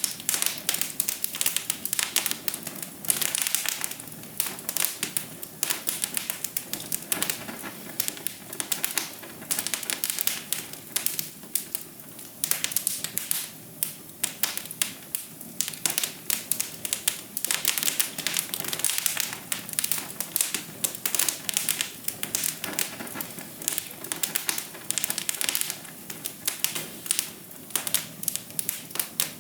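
Wood fire crackling in a fireplace: a dense, irregular run of small snaps and pops, several a second, over a low steady hiss.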